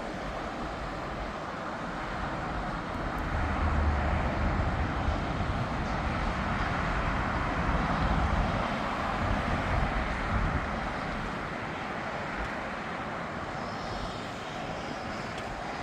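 Jet airliner engines passing: a wide rushing noise with a deep rumble that swells about three seconds in, stays loud for several seconds, then fades back to a steady background hum.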